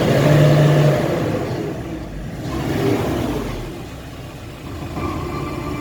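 Kia Bongo III 1.2-ton cargo truck engine revving up and easing off twice while driving.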